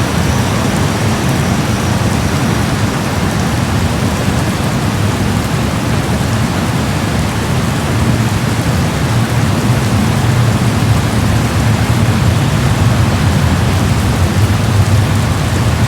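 Heavy rain falling steadily on a concrete road: a constant dense hiss with a strong low rumble underneath, growing a little louder about halfway through.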